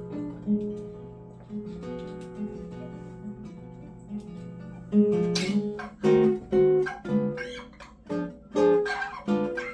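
Acoustic guitar played by hand: soft picked notes ringing on, then louder plucked and strummed chords from about five seconds in.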